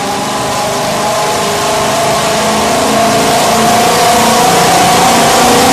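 Mercedes-Benz C63 AMG's 6.2-litre V8 running on a chassis dyno through a full iPE exhaust, its revs climbing slowly and steadily under load. The exhaust note rises gradually in pitch and grows louder.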